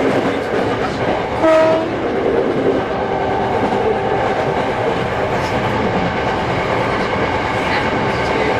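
Hankyu 6300 series train running, heard from on board, with a short horn blast about a second and a half in.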